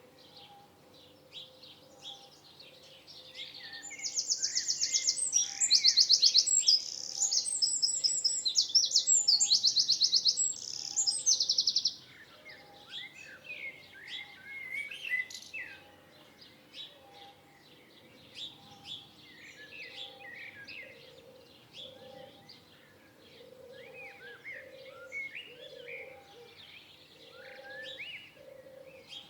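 Wild birds singing: a loud, rapid, high-pitched trill from about four seconds in until about twelve seconds, then scattered short chirps and whistles from several birds. Underneath, a faint low note repeats about once a second.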